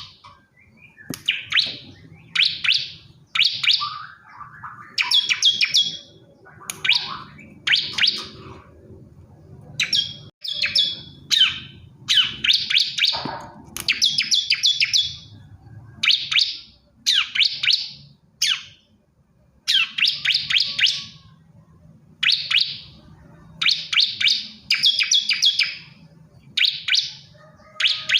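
Male bar-winged prinia (ciblek kristal) singing: short bursts of rapid, high chirping notes, one phrase after another about once a second, with brief pauses between.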